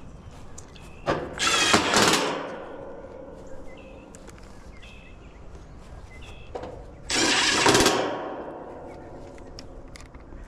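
Cordless power tool, such as a drill/driver, run in two short bursts of about a second each, the second about six seconds after the first, over a steady low hum.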